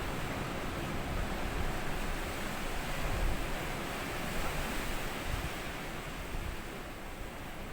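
Small sea waves washing up on a sandy beach, a continuous rush of surf. One wash swells about halfway through and eases off near the end, over a low steady rumble.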